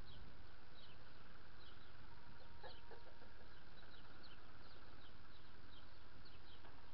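Small birds chirping: short, high, falling notes, several a second, with a brief lower call about three seconds in, over a steady low hum.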